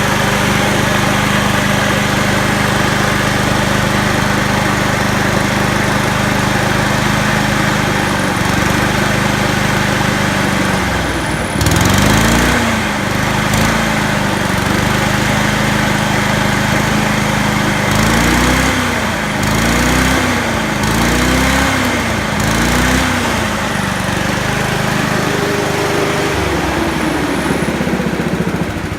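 Honda HRU216 lawn mower engine running steadily at fast throttle, then from about eleven seconds in revving up and dropping back several times as the governor arm is pushed by hand. The rise in speed is a massive difference, showing the governed speed sits about 20% below the engine's full rpm.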